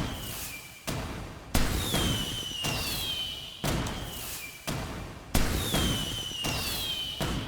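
Fireworks going off in quick succession, a sharp bang about once a second, several of them followed by a whistle that falls in pitch.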